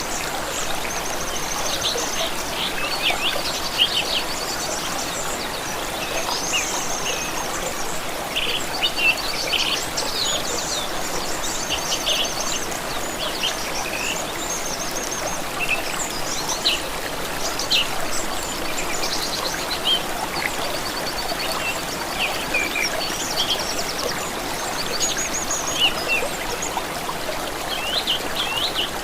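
Several small birds singing and chirping in quick, high trills and rapid note series, over the steady rush of a flowing stream.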